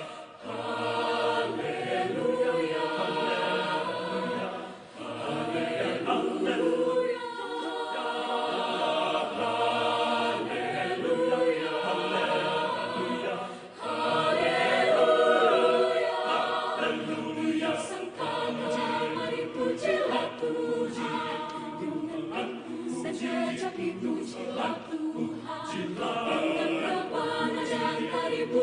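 A choir of young male and female voices singing a sacred song in harmony, with short breaths between phrases about 5 and 14 seconds in.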